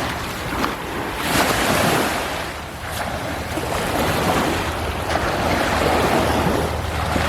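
Gentle surf washing onto a sandy beach, the noise swelling and easing every few seconds, with wind rumbling on the microphone.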